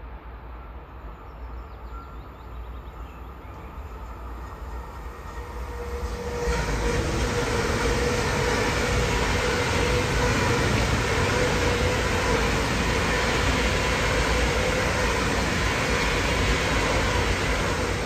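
A train passing at speed: the sound is faint at first, then swells sharply about six seconds in into a loud, steady rush of wheels on rail, with a steady tone underneath.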